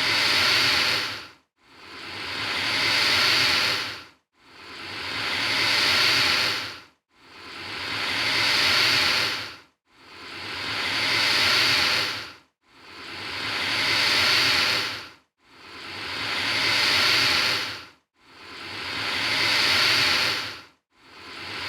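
Alligator hissing: long breathy hisses that each swell and then fade over about two and a half seconds, repeating evenly with short silent gaps, about eight in a row.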